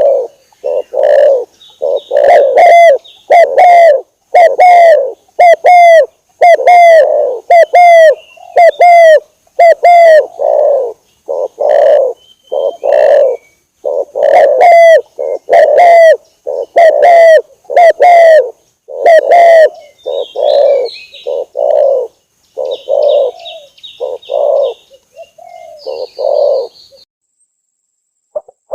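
Spotted dove (tekukur) cooing over and over in its rhythmic call, a loud run of coos about one a second. It is a lure call for attracting wild doves. Small high chirps come in over the later coos, and the calling stops shortly before the end.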